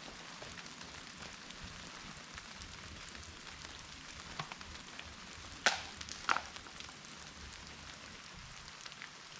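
Steady patter of rain falling in woodland, with a couple of sharp knocks a little past halfway.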